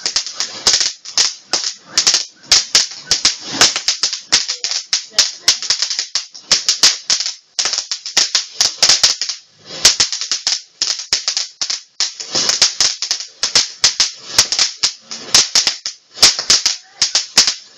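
Firework crackling: a rapid, irregular stream of sharp cracks and pops with a couple of brief lulls.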